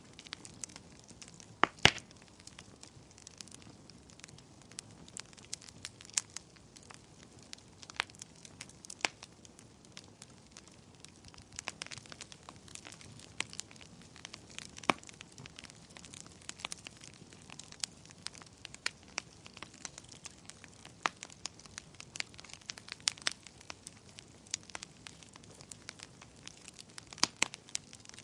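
Wood fire crackling in a fireplace: irregular sharp pops and snaps over a faint steady hiss, with a loud double pop about two seconds in and another cluster near the end.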